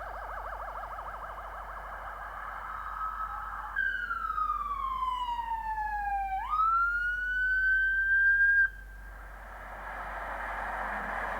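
Police car siren: one clear tone slides down in pitch for about two and a half seconds, jumps back up, climbs slowly and then cuts off suddenly. Before and after it there is a hissy wash of noise in the same pitch range.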